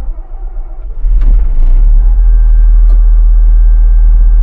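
Cotton picker's diesel engine coming in suddenly and building about a second in to a loud, steady run, with a steady whine joining in about two seconds in.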